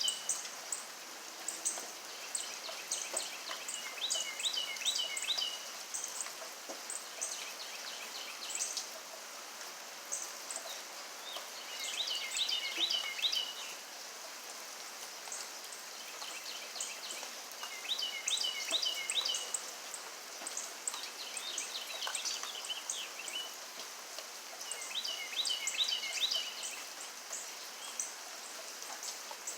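Steady rain falling, with a bird calling over it: a short run of four or five quick descending notes, repeated every few seconds.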